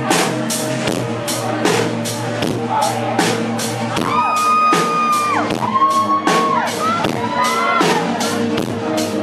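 Live band playing a song's instrumental intro in a large hall, with a steady drum beat of about two to three strokes a second. A long, high held note slides up into pitch and back down about four seconds in, then a second, shorter one follows.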